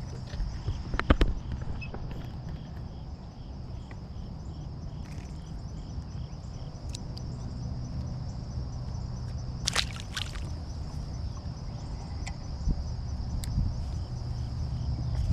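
Outdoor lakeside ambience: a steady low rumble, likely wind on the microphone, under a steady high-pitched trill. A few sharp knocks come about a second in and again around ten seconds in.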